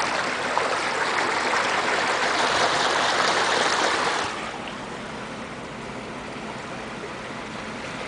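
Floodwater rushing and splashing against a car as it drives through the flooded street. The rush is loud for about four seconds, then drops off suddenly to a softer steady wash.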